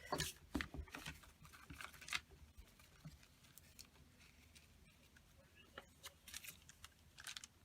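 Paper ephemera being sorted and shuffled by hand: light rustles and small taps of paper pieces, busiest in the first couple of seconds and again near the end.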